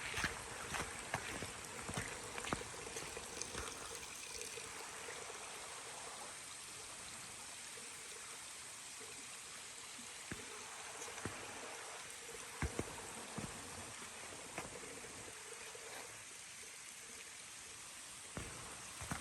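Mountain stream running steadily, with scattered footsteps on the trail, more of them in the first few seconds.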